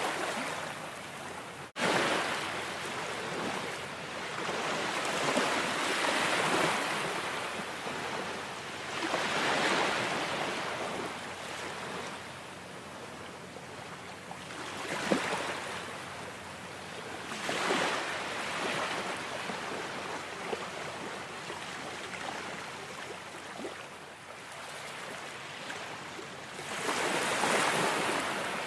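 Ocean waves breaking and washing in, the surf swelling and fading every few seconds, with a brief sudden dropout about two seconds in.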